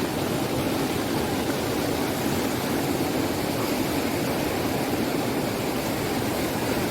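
Rushing river water pouring over rocks at a small waterfall, a steady loud rush with no break.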